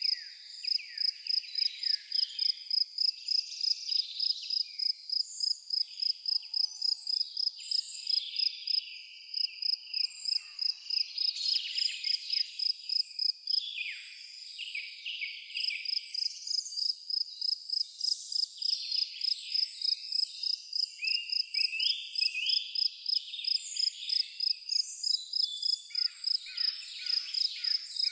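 Natural evening ambience: an insect chirping in an even high-pitched pulse about three times a second, with many birds chirping and trilling over it.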